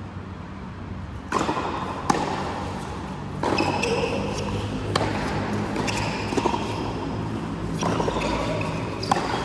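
A doubles rally in a racket sport: the ball is struck with a sharp crack about every second and a half, seven hits in all, with short squeaks from shoes on the court between the hits.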